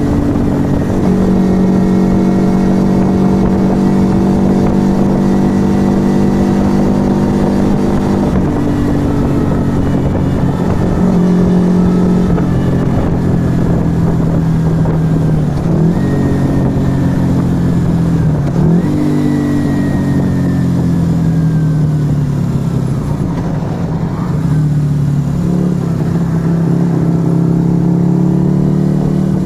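Yamaha XV125 Virago's small air-cooled V-twin running through a Turbo Kit aftermarket exhaust under way. It holds a steady pitch for the first several seconds, then shifts gear with brief dips in the middle. The pitch falls over a long slowdown, then rises again as it accelerates near the end.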